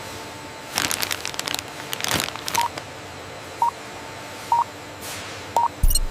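Packing-line sounds: a cluster of clicks and plastic rustling as snack bags are handled, then a run of four short electronic beeps about a second apart over a steady machine hum. A low thump with more clicks comes near the end.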